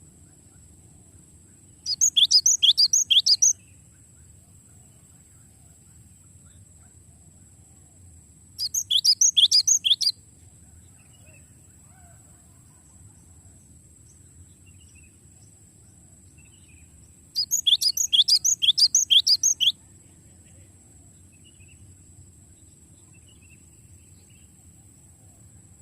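Gelatik batu (cinereous tit) singing three rolling phrases, each a quick run of repeated falling whistled notes lasting one and a half to two seconds, several seconds apart. A steady low hum runs underneath.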